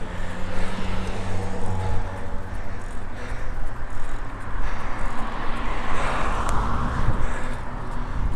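Road traffic heard from a moving bicycle, with wind rumbling on the microphone; a car passes about six seconds in.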